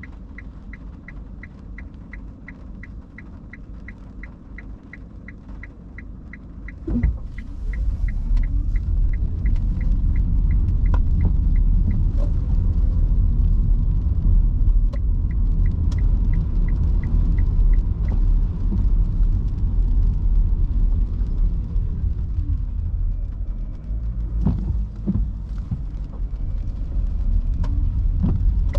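Nissan Leaf cabin while driving in heavy rain: the turn-signal indicator ticks steadily at about two to three ticks a second for the first eight seconds or so and again briefly in the middle. About seven seconds in, after a thump, a low road rumble rises sharply and stays as the car gets moving on the wet road.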